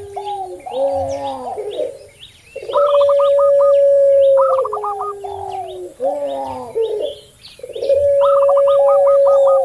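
Doves cooing together. A puter pelung (long-voiced collared dove) gives a long, steady held coo that drops in pitch at its end, once a few seconds in and again near the end. Around it run quicker, higher rippling coo notes and lower coos from a perkutut (zebra dove) and a tekukur (spotted dove), over faint small-bird chirps.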